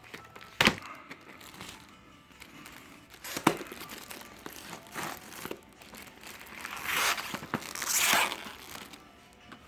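Fireworks packaging being handled and unwrapped: a couple of sharp knocks, then louder crinkling and tearing of wrapping near the end.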